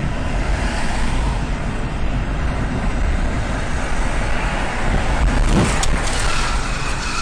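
Steady road and engine noise of a moving car, with one brief knock a little past the middle.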